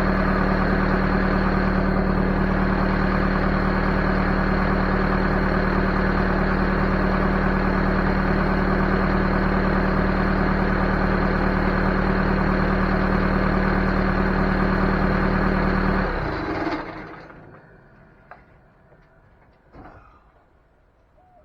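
Backhoe diesel engine idling steadily, then shut off about sixteen seconds in and running down within a second, followed by a few faint clicks and knocks.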